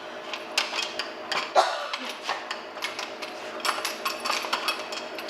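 Dog working a plastic treat-puzzle toy with its nose and paws: irregular clicks, knocks and clatter of hard plastic and dry treats rattling inside.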